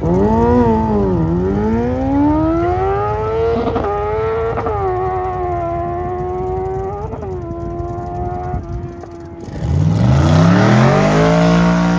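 Drag racing car engine under full throttle, its pitch climbing with several brief dips and then fading out. About three-quarters of the way through, a louder engine revs up and back down.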